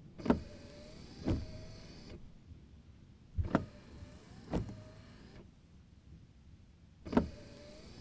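Car windshield wipers on the intermittent setting: the wiper motor whines as the blades sweep across the wet glass and back, with a knock at each end of the stroke. The sweep repeats about every three and a half seconds.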